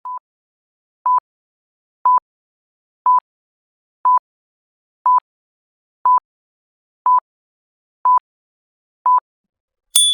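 Countdown timer: ten short electronic beeps at one pitch, one each second, then a bright ding right at the end.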